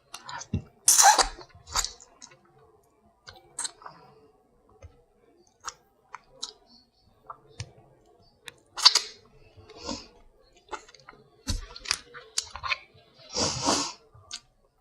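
Crab shells being cracked and picked apart, heard as irregular sharp cracks and clicks, with three longer crunching bursts, and chewing close to the microphone.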